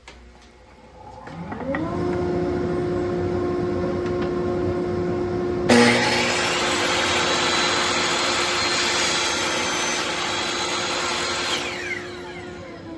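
Table saw motor spinning up to speed and running steadily, then the blade cutting through a wooden board on a wedgie sled with a sudden start about six seconds in, lasting about six seconds. After the cut ends the saw begins to wind down near the end.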